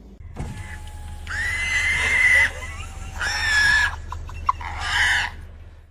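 An animal giving three high, drawn-out cries, the first the longest, over a steady low rumble.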